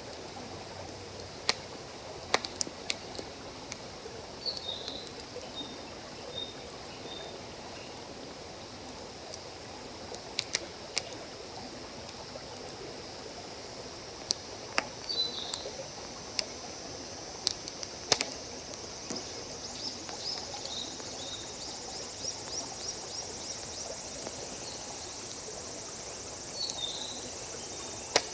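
Wood campfire crackling, with sharp pops scattered through, over the steady rush of a forest stream. A bird chirps briefly a few times, and an insect's fast ticking trill sets in about twenty seconds in.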